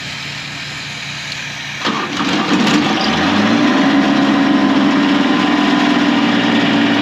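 The gas engine of a compact footer-digging machine is started with a little throttle. It catches about two seconds in, its pitch rises briefly, then it settles into a steady run.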